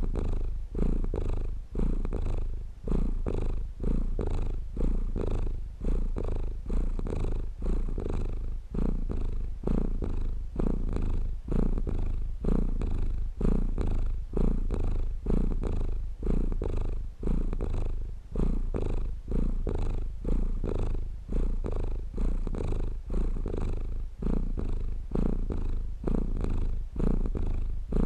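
A domestic cat purring steadily at close range, the low rumble swelling and easing with each breath, about once a second.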